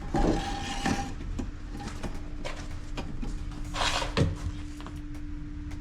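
Knocks and scraping of old plumbing pipe being worked loose, in two louder bursts about a second in and around four seconds, over a steady low hum.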